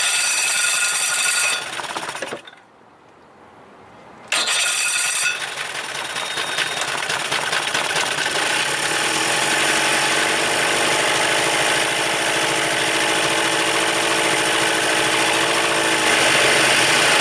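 1975 Evinrude 40 hp two-stroke outboard running on its bottom (number 2) cylinder alone. It goes quiet for a couple of seconds about two and a half seconds in, then comes back and runs steadily. On this cylinder it sounds much better than on the top one, which the owner suspects has a failing condenser or points.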